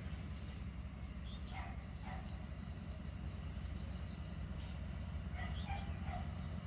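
A bird calls in two short groups of downward-sweeping chirps, about one and a half seconds in and again about five and a half seconds in, over a steady low rumble.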